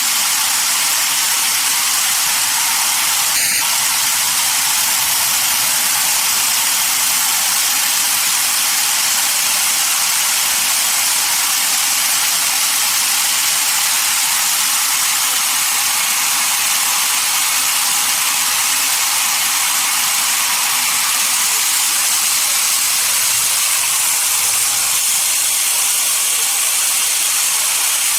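Steady, loud hissing noise of sawmill machinery, with a brief clack about three and a half seconds in.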